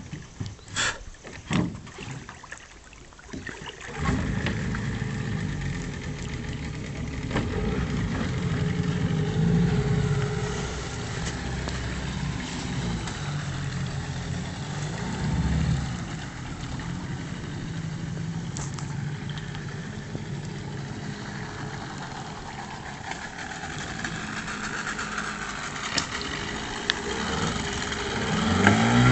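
A few knocks, then a Parsun 9.8 hp outboard motor starts about four seconds in and runs steadily at low speed, its hum varying a little and rising slightly near the end.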